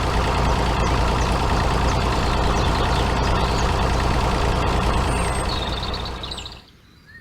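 A truck-like vehicle engine running steadily with a low hum, fading away about six and a half seconds in.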